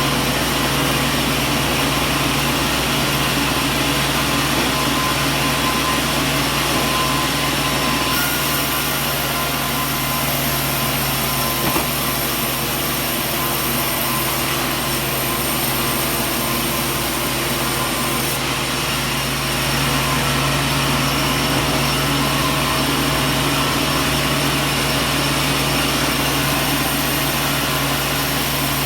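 Sawmill machinery running steadily: a constant mechanical hum, with a thin high whine added for about ten seconds in the middle.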